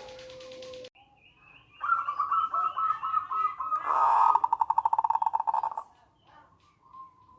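Zebra dove (local perkutut) singing: after a short pause, a loud series of high cooing notes runs into a fast, even rattle of short notes for about two seconds, then breaks off. A faint held note follows near the end.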